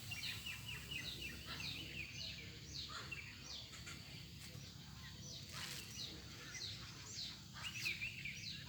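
Birds chirping: a continuous run of short, falling chirps, several a second, over a steady low background rumble.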